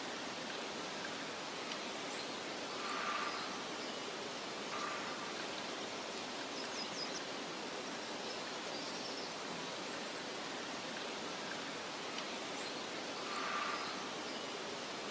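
Steady soft wind hiss of meadow ambience, with faint high bird chirps now and then and a brief brighter call a few seconds in and again near the end; the same pattern recurs about every ten seconds.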